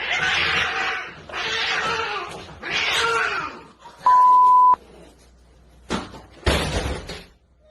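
Three short breathy, hissing bursts, then a single steady high beep lasting under a second, like a censor bleep. Near the end come two short, loud thumps.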